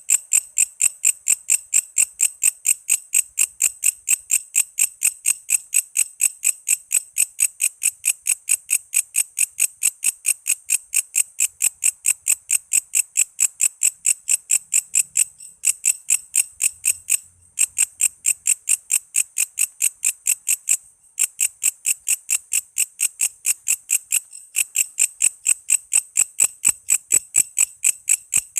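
Walang kece, an Indonesian singing insect, calling in a fast, even train of shrill pulses, about three or four a second, broken by a few brief pauses.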